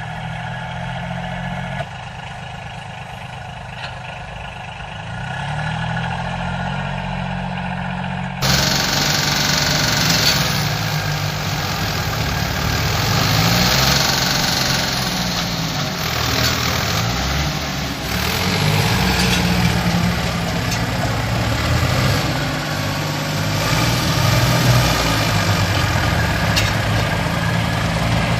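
A heavy vehicle engine running, its pitch wavering up and down. About eight seconds in the sound turns suddenly fuller and louder.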